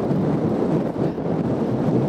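Steady, loud rushing noise of wind buffeting the microphone, mostly low in pitch.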